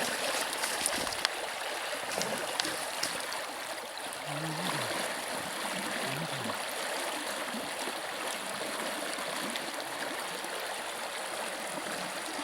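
Rushing water of a shallow taiga river running steadily over stones, with a few light clicks in the first few seconds.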